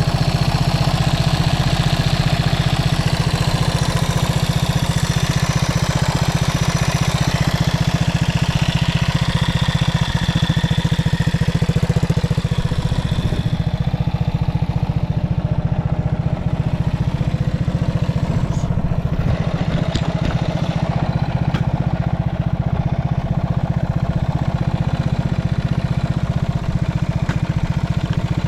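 Yamaha TW200's single-cylinder four-stroke engine running steadily through a Supertrapp aftermarket muffler. There is extra hiss in the upper range over the first half that fades out about halfway through.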